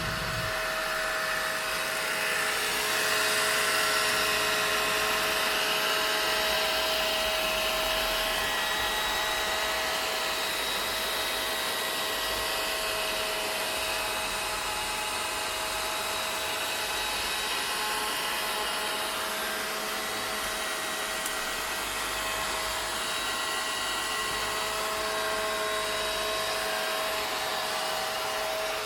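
Vacuum cleaner running steadily: a constant motor whine over the rush of air, swelling slightly a few seconds in.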